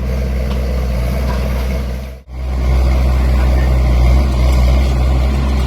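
An engine idling steadily with a low hum. It cuts out abruptly about two seconds in and comes straight back.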